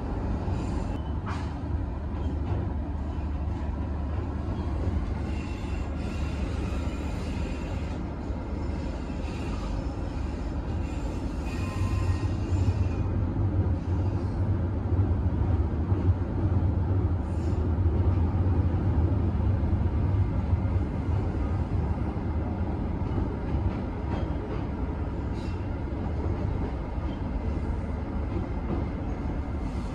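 Inside the passenger coach of a KTM Skypark Link commuter train running along the line: a steady low rumble of the wheels and running gear, which grows louder for a stretch in the middle.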